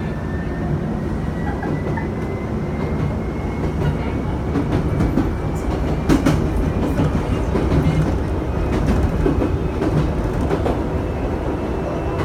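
Chichibu Railway electric train running, heard from inside at the front: a steady rumble of wheels on rail with clickety-clack from the rail joints. A thin whine rises slowly in pitch through the first half.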